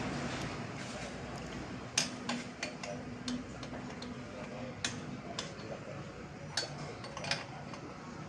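Scattered light metallic clicks and clinks at irregular intervals, the loudest about two seconds in, from hand tools and metal fittings being handled while work goes on on a scooter exhaust.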